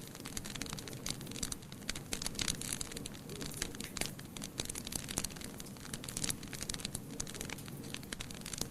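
Wood fire crackling, with frequent irregular snaps and pops over a steady hiss.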